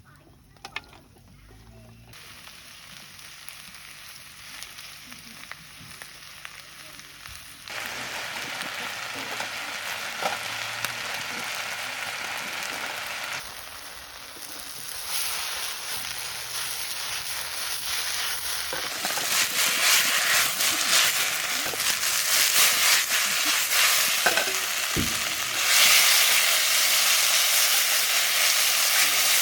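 Food sizzling as it fries, with some stirring. It comes in several abrupt stages and gets louder toward the end.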